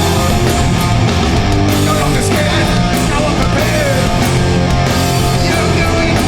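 Live hardcore punk band playing loud, with distorted guitars and bass over steady, fast drum hits.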